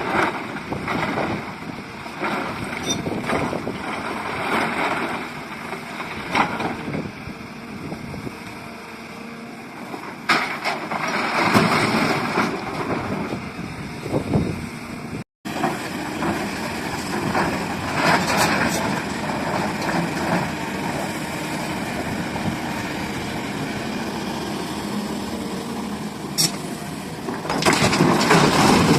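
SDLG excavator working: the diesel engine runs under changing load, with scattered knocks and clanks throughout. The sound drops out for an instant about halfway through and grows louder near the end.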